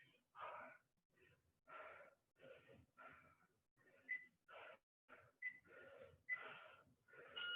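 Faint, quick, heavy breathing from a person exerting themselves during plank jacks, about two breaths a second. A few breaths carry a brief thin whistle.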